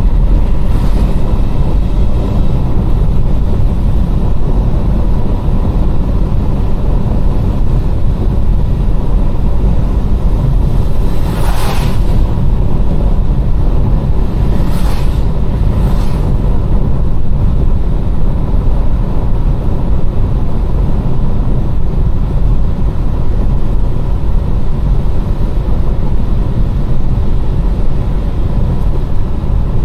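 Car driving on a wet road: a steady low rumble of road and engine noise, with three brief louder hisses about 11, 15 and 16 seconds in.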